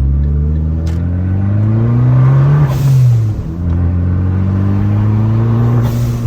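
Fiat 500 Abarth's turbocharged 1.4-litre four-cylinder accelerating, its pitch climbing, then the Turbosmart blow-off valve venting with a loud hiss as the throttle closes about two and a half seconds in, the revs dropping for a gearshift. The engine pulls again and the valve vents a second time near the end.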